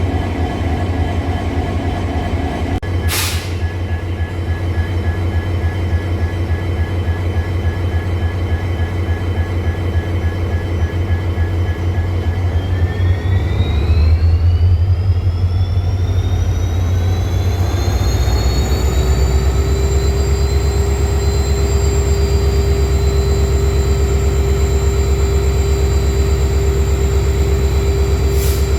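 EMD WDP4 diesel locomotive's EMD 710 engine idling, then notched up about twelve seconds in: the rumble and a whine rise in pitch over several seconds and settle at a steady higher engine speed. There are two brief sharp clicks, one near the start and one at the very end.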